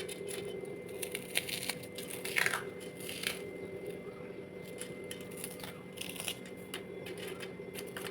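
Crisp oven-toasted bread croutons crunching and crackling in irregular bursts as they are handled or broken, with one louder crunch a little over two seconds in, over a steady low hum.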